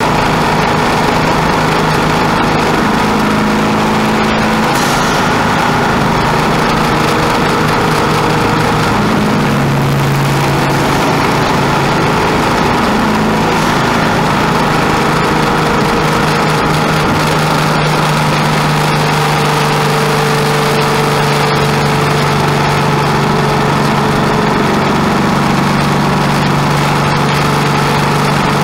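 Turbocharged air-cooled VW Beetle flat-four engine heard from inside the cabin, running steadily at low revs, its pitch shifting a little now and then.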